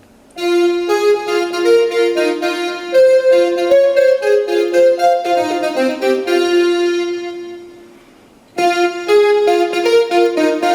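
Piano music playing through the Conceptronic Wireless Action Speaker, an 18 W Bluetooth speaker, during an audio test. The piece fades out about seven seconds in and, after a brief pause, a new piano passage starts near the end.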